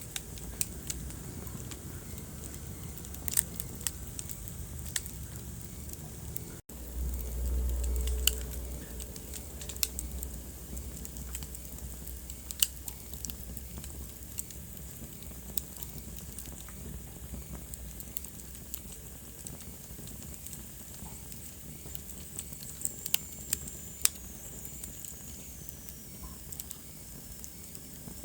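Wood fire burning in a fireplace, crackling with irregular sharp pops over a steady hiss. A brief dropout a few seconds in is followed by a low rumble for a couple of seconds, and near the end a thin high whistle slides down in pitch.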